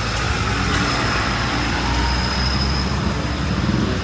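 Street traffic: a motor vehicle's engine running close by with a low hum, and a thin, steady high whine over it from about a second in.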